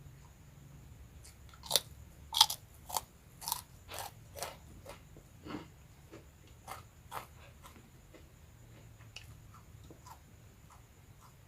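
Close-up crunching of crispy rambak (fried skin crackers) being bitten and chewed, about two crunches a second. The crunches are loudest near the start and grow fainter and sparser over the next several seconds.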